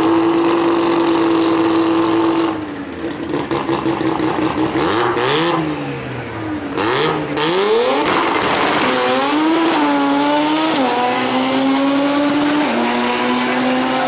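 Turbocharged rotary engine of a drag-racing Mazda RX-7 held at steady high revs, then dropping off and blipped up and down a few times. About eight seconds in it launches: the pitch climbs and steps down twice as it shifts gears.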